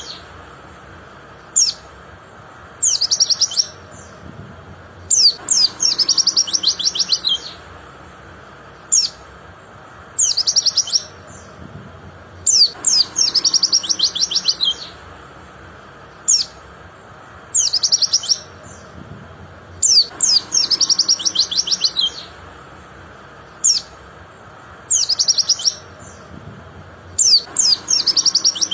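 Pleci (white-eye) singing: loud phrases of rapid, high, down-slurred trilled notes, each a second or two long, repeated every few seconds with short single chirps between.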